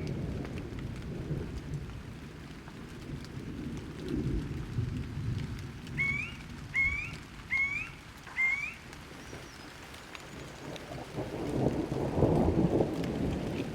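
Rain with rolling thunder. The low rumble swells loud about two-thirds of the way through, and a bird gives four short rising chirps in quick succession near the middle.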